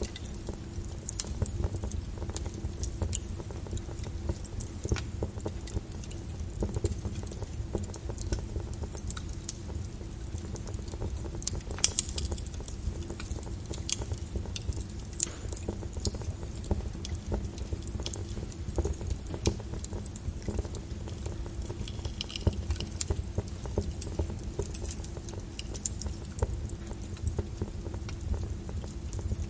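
Wood fire burning in a fireplace: a steady low rumble of flames with irregular crackles and pops, a louder pop about twelve seconds in.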